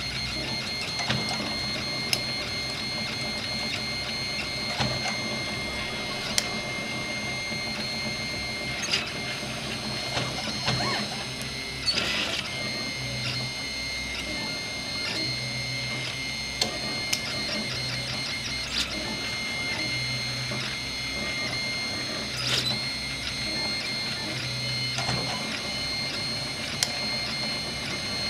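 RepRap 3D printer running a print: its stepper motors whine steadily, with a low hum that starts and stops in stretches of a second or two as the moves change. A few sharp clicks come through now and then.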